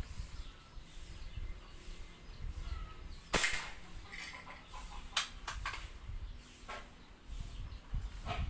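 A single shot from a .22 calibre airgun: one sharp crack a little over three seconds in, followed later by a few fainter clicks.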